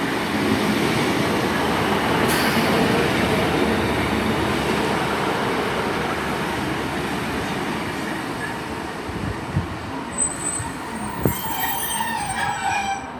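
Class 150 Sprinter diesel multiple unit running into the platform, loudest at first and gradually quieter as it slows. Near the end, high-pitched squealing as it draws to a stop.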